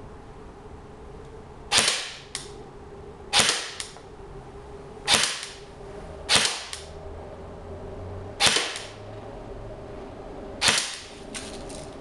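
JG M4 S-System electric airsoft rifle firing six single shots, one every second or two, each a sharp crack with a short tail. Some shots are followed about half a second later by a fainter tick.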